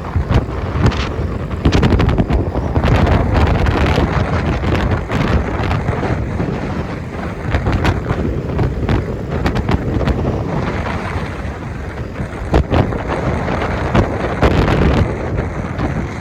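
Wind buffeting the microphone in irregular gusts over a steady low vehicle rumble, as heard on the move.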